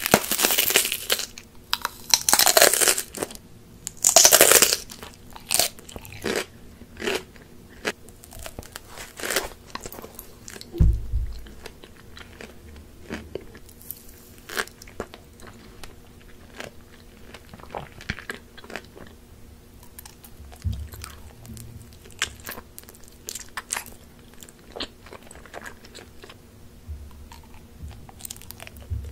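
Close-miked mouth sounds of a person biting and chewing soft and crunchy sweets: a few loud crunchy bites in the first five seconds, then a long run of softer wet chewing clicks.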